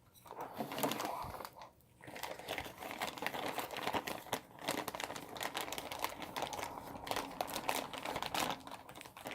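Plastic packaging crinkling and crackling as it is handled and unwrapped by hand, a dense run of small irregular crackles with a brief lull about two seconds in.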